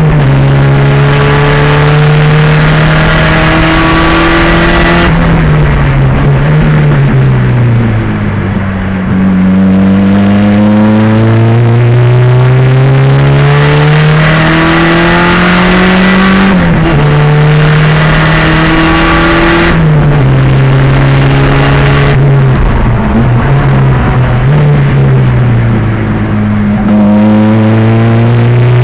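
A 1987 Pontiac Fiero's 2.0-litre turbocharged racing engine is driven hard on track. Its note climbs steadily under full throttle, drops abruptly at each upshift or lift for braking, then climbs again.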